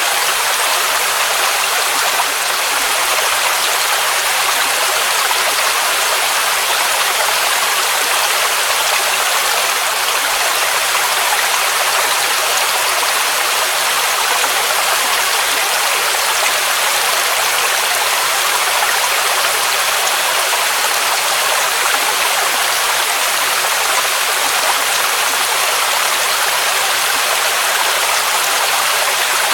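Waterfall: a steady, constant rush of cascading water, hissy and even with little low rumble.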